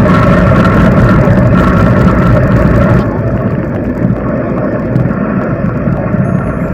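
Wind rumbling over the microphone of a camera riding on a moving bicycle. It eases slightly and turns duller about halfway through.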